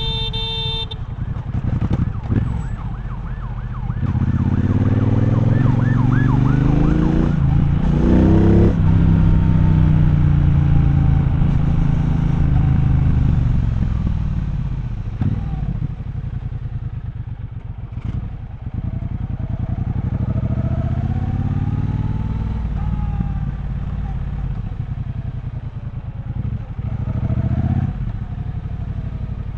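Triumph Bonneville Bobber's 1200 cc parallel-twin engine pulling hard through the gears, revs rising from about four seconds in, then rolling off and dropping, and pulling up again around the twenty-second mark before easing off once more. A brief steady tone sounds in the first second.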